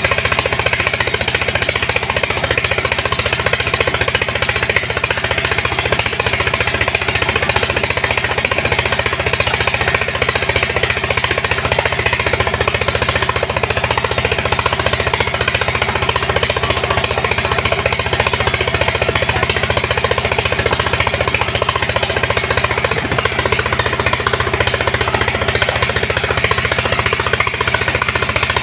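Engine of a sand suction pump running steadily under load, with a fast, even knocking beat.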